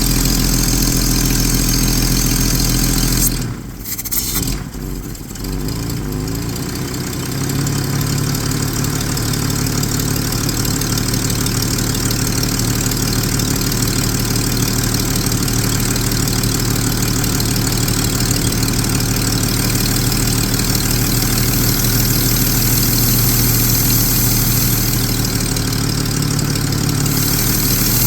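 1999 Jeep 4.0-litre straight-six idling steadily. About three and a half seconds in, the sound breaks off and dips for a couple of seconds, then the engine settles back into a steady idle at a slightly different pitch.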